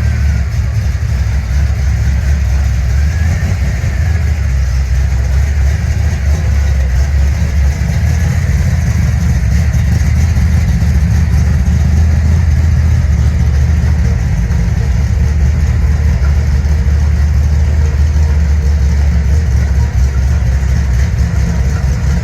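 Steady low rumble of a car engine running at an even speed, without revving.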